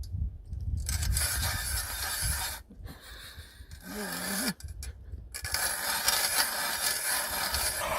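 Hand ice auger boring into thick ice: the blades scrape and rasp through the ice in two long stretches, with a pause of about three seconds between them.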